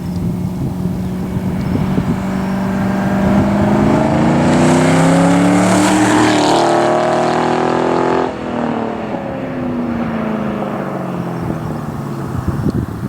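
Ford Mustang 4.6-litre V8 exhaust under acceleration, rising in pitch and getting louder. About eight seconds in it drops off sharply as the throttle is released, and the pitch falls away.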